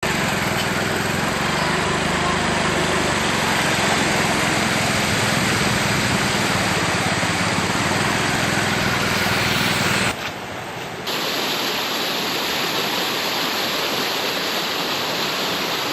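Fast-flowing floodwater rushing through a washed-out road culvert, a steady loud rush. It dips for about a second around ten seconds in, then carries on.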